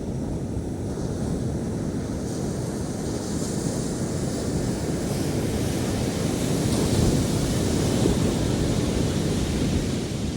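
Ocean surf on a sandy beach: waves breaking and washing up the sand in a steady rush that swells to its loudest about seven or eight seconds in, then eases.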